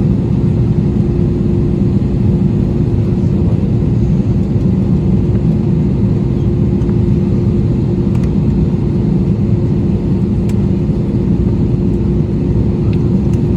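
Airbus A320 airliner heard from inside the cabin: a steady, loud jet engine and airflow rumble with a constant hum tone over it, and a few faint ticks later on.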